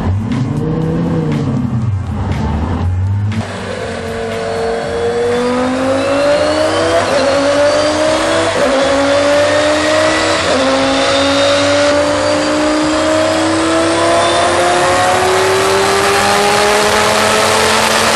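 Twin-turbo Lamborghini Gallardo V10 on a chassis dyno: a quick rev that rises and falls, then from a few seconds in a long full-throttle pull with the engine pitch climbing steadily, loud, with the hiss of the turbos and rollers over it.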